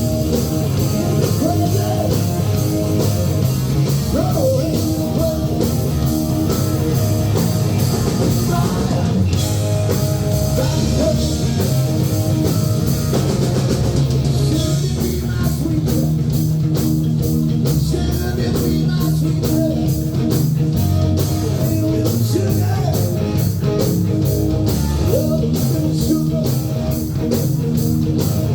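Live rock band playing loudly, with electric guitar and drum kit; about halfway through the drums settle into a steady fast beat.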